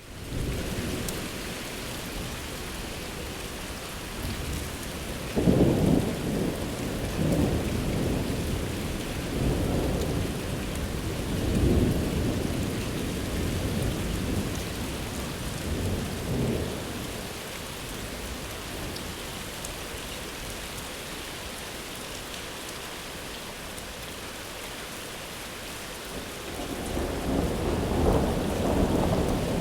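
Steady rain hissing, with thunder rolling low several times in the first half. After a calmer stretch, another rumble builds near the end.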